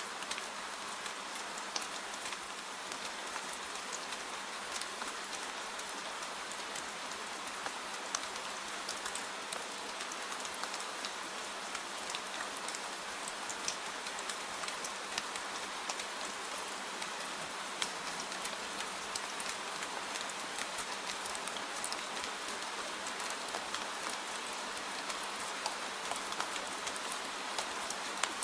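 Steady gentle rain, with many small drop ticks scattered through it and no change in strength.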